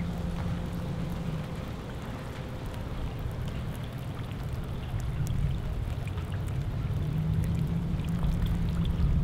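Steady rain falling on floodwater and wet ground, with scattered raindrop ticks over an even hiss and a low steady hum underneath that grows stronger near the end.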